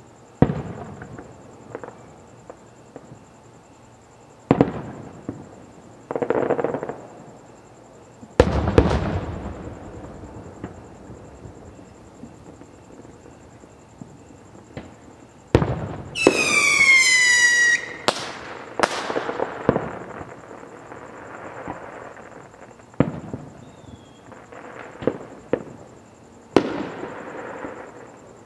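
Aerial fireworks bursting: about seven sharp booms spread out, each trailing off in a rumble. About halfway through, a whistling firework sounds loudly for about two seconds, falling slightly in pitch.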